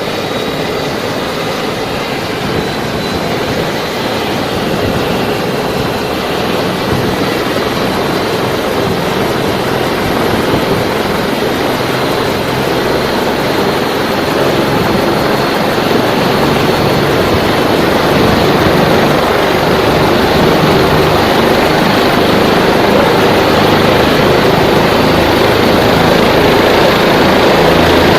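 Helicopter running close by: rotor and turbine engine noise that grows steadily louder, with a faint high whine in the first few seconds.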